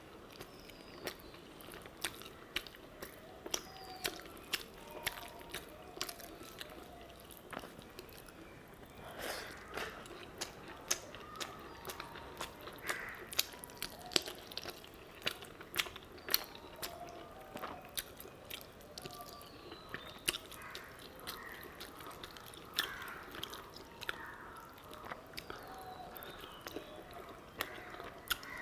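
Close-miked chewing of chicken curry and rice, with many sharp wet mouth clicks and smacks at an irregular pace.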